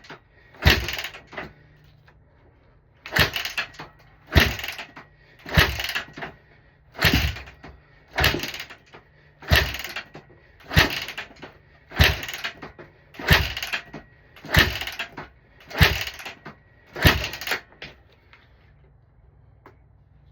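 Honda CRF150R's 150cc four-stroke single being kick-started over and over, about thirteen kicks each a bit over a second apart, the engine turning over with each kick but never catching.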